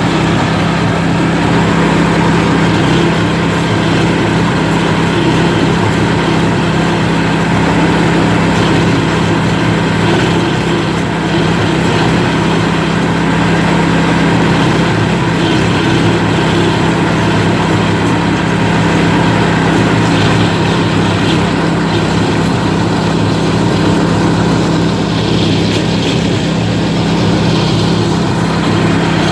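Engine-driven coconut husk peeling machine running steadily, with a loud, constant low drone that holds without a break.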